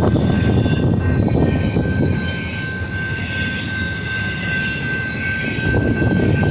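Freight train rolling past: a steady low rumble of wheels on rail with a thin, steady high whine over it, easing slightly in the middle.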